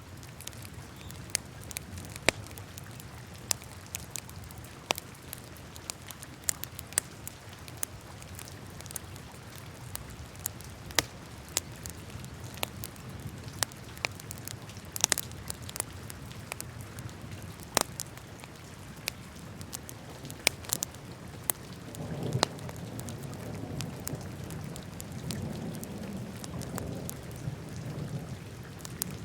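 Wood fire crackling in a fireplace: irregular sharp pops and snaps over a low, steady rumble of the flames. Near the end the low rumble swells louder.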